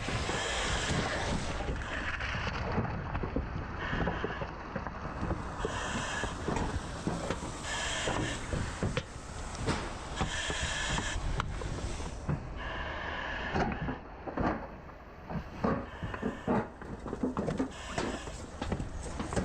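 Irregular knocks, clatter and scraping of burnt debris being worked during fire overhaul, with a short hiss recurring about every two seconds.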